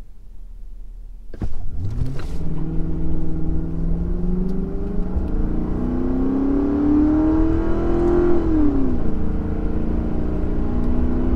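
2004 Mercury Grand Marquis's 4.6-litre V8 under full throttle from a standstill, heard from inside the cabin. It starts suddenly after a second or so, and the revs climb steadily. About eight and a half seconds in the pitch drops at an automatic upshift, then climbs again.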